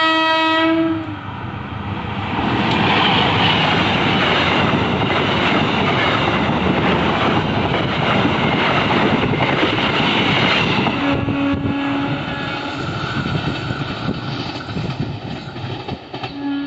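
Diesel locomotive horn sounding one blast of about a second, then a train passing close by with a loud rumble of wheels on the rails. About eleven seconds in, the sound changes to another train with a short horn note and a quieter rumble.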